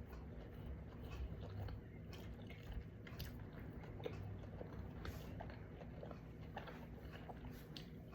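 A person chewing and biting food close to the microphone, with small scattered clicks and mouth sounds.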